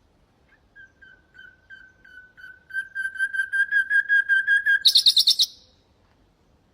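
Common nightingale singing one phrase: a run of repeated whistled notes, about four a second, swelling from soft to loud, then a brief loud rattle higher in pitch.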